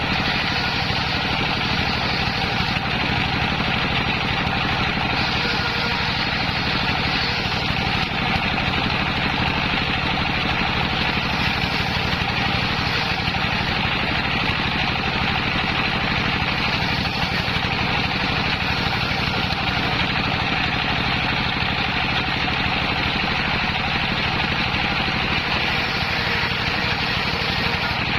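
Homemade circular saw rig running steadily, its drive motor and blade droning evenly with no clear change in load.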